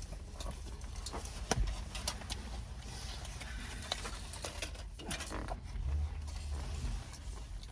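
Someone chewing a mouthful of calzone: scattered wet clicks and smacks of the mouth over a low steady rumble.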